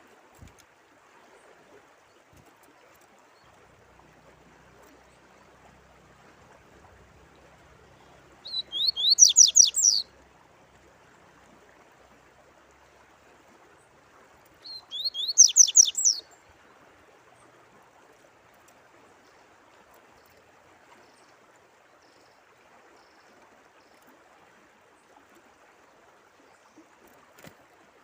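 A songbird sings two short phrases, about 8 and 15 seconds in, each a quick run of high whistled notes that slide downward. Behind them is a faint, steady sound of running water.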